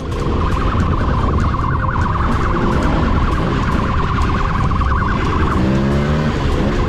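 Police motorcycle siren sounding in a fast, rapid warble over the low rumble of engines and wind during a pursuit. The siren briefly drops out about five and a half seconds in, while a lower tone sounds.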